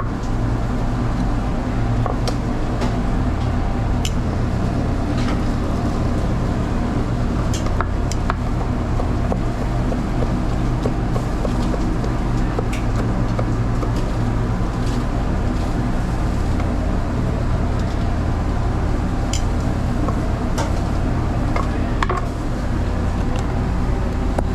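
Knife slicing grilled teriyaki chicken on a cutting board: sharp knocks every second or few seconds, irregularly spaced, over a steady low hum of running equipment.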